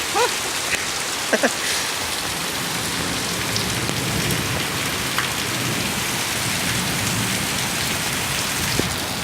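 Heavy rain falling steadily: an even, dense hiss of rain on surfaces. Two short sounds sliding in pitch stand out in the first second and a half.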